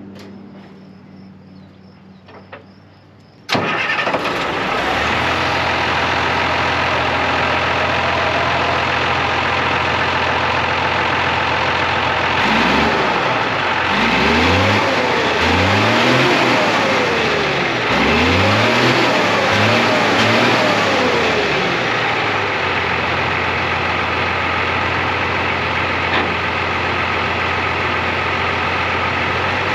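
M35 'Deuce and a half' army truck's turbocharged diesel engine, still on its stock turbo, cutting in suddenly a few seconds in and idling steadily. It is revved up and let fall back several times in the middle, then returns to idle.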